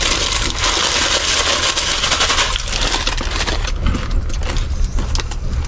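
Close-up crunching, crackling and rustling of dry instant noodles being eaten from the packet, busiest in the first half, over a steady low hum.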